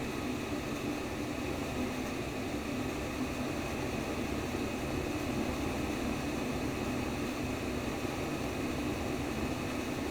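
Simulated womb sound for infants: an even, low whooshing white noise that runs steadily without pulses or breaks.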